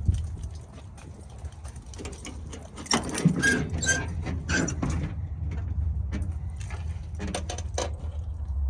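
Footsteps crunching through mud and ice, with a louder run of steps about three to five seconds in and a few more near the end, over a steady low rumble.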